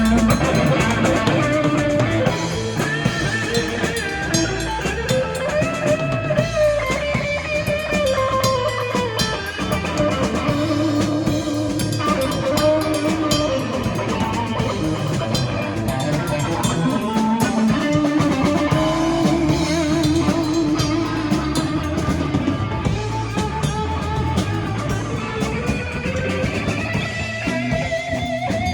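Live rock and roll band playing: guitar lines over a steady drum kit beat.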